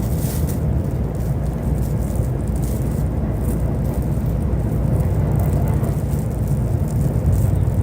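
JR East E531 series electric train running along the line: a steady low rumble of wheels on rail, with faint light clicks and rattles above it.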